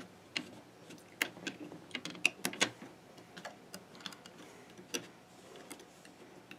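Faint, irregular small clicks and taps of rubber bands being stretched onto the plastic pegs of a Fun Loom.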